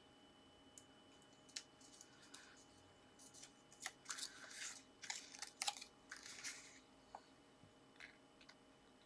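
Cardstock pieces being handled and pressed into place: faint rustling and crinkling with small sharp clicks, busiest in the middle.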